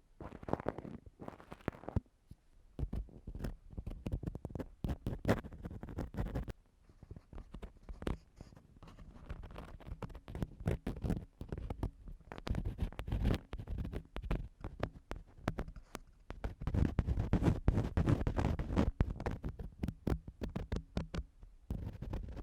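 Close-miked ear cleaning: an ear-cleaning tool scraping and rubbing inside a microphone's ear, a dense run of crackly scratching strokes that grows louder in the last third.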